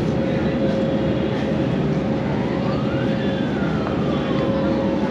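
Passenger ferry's engine running steadily under way, with a constant drone and rushing noise. Midway, a faint tone glides up and then slowly back down.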